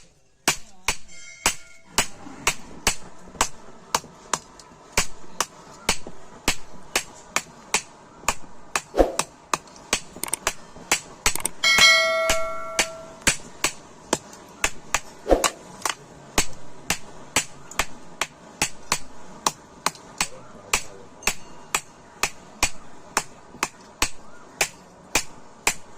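Blacksmith's hand hammer striking metal on an anvil in a steady run of blows, about two a second. About twelve seconds in, a bell-like metallic ring sounds out for a second or so among the blows.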